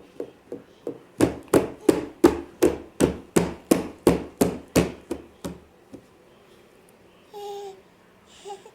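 Rhythmic knocking or banging, about three sharp knocks a second, growing louder and then stopping about six seconds in. A short, high cry follows near the end.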